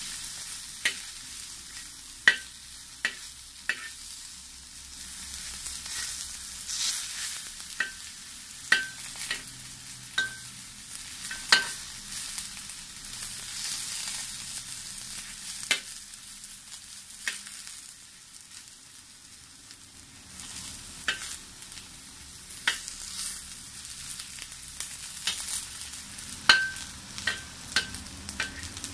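Eggplant strips sizzling as they shallow-fry in oil in a wok, with sharp clinks of a metal spatula striking and scraping the wok at irregular intervals as the pieces are turned. The clinks come in clusters, most of them in the first few seconds and again near the end.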